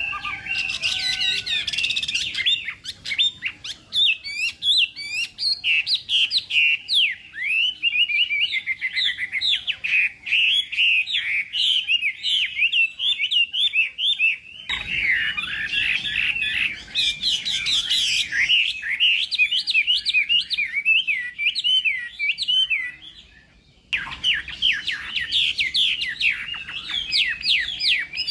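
Chinese hwamei (hoạ mi) singing a long, fast, varied song of rapid whistled phrases. The song breaks off briefly near the end, then starts again.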